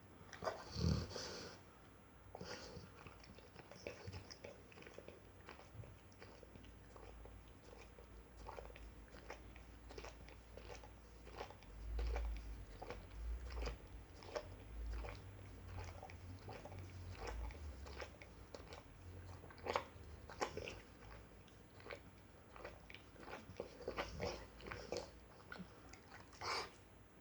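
Rottweiler making soft mouth noises: scattered short clicks and smacks, like chewing or lip-smacking, with a low rumble in the middle stretch.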